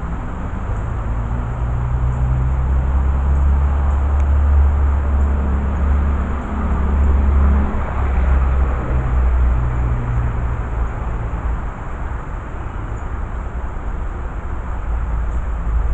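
Steady, loud low rumble of a heavy engine, with a deep hum that shifts pitch a few times and swells about halfway through.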